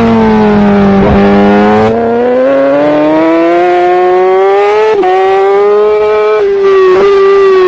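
Superbike engine at racing speed, heard from an onboard camera. The revs drop low early on, then climb steadily under acceleration, with quick breaks as gears change about a second, five seconds and seven seconds in.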